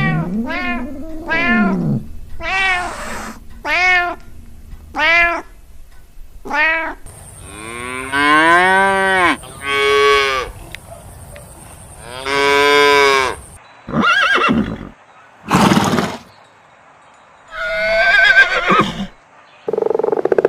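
A run of animal calls from several clips cut together: short, arching calls about once a second for the first six seconds, then longer drawn-out calls, then a few other short cries near the end.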